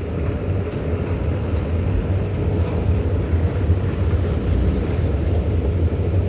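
Running escalator giving a steady low mechanical rumble and hum, with an even noise of the machinery and hall around it.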